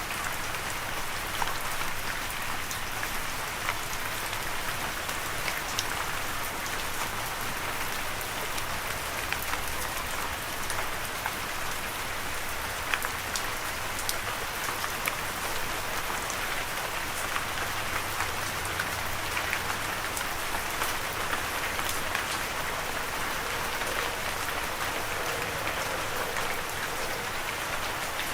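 Steady rain falling on a surface, an even patter with many individual drop ticks heard through it.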